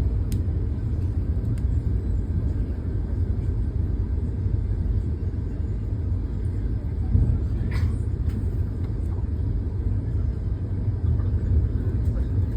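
Vande Bharat electric train running at speed: a steady low rumble with a few faint clicks and knocks.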